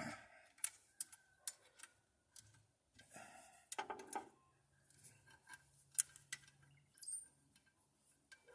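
Scattered light metallic clicks and clinks of hand tools and bolts being worked while fitting an exhaust manifold to the engine, with a couple of brief rustles.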